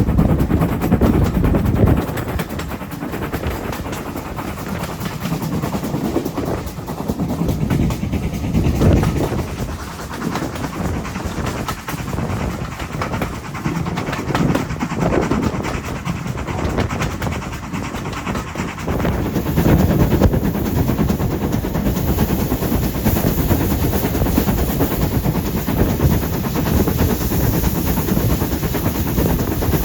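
Heritage steam train running along the line, a steady noise of the train on the rails that grows louder and brighter about two-thirds of the way through.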